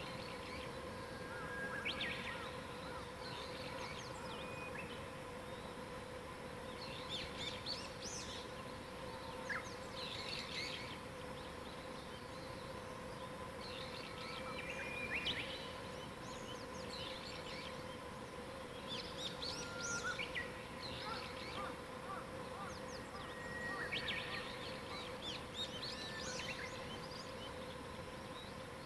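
Wild songbirds singing and calling, several short chirps and trills every few seconds, over a steady low hum and a faint even hiss.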